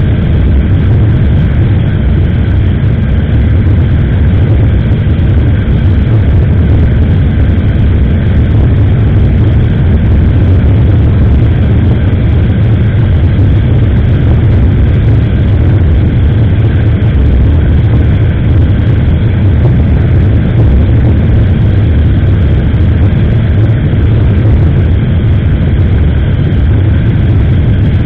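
Steady, loud rush of wind and road noise on a motorcycle-mounted SJCAM action camera's microphone while riding at speed, heaviest in the low end.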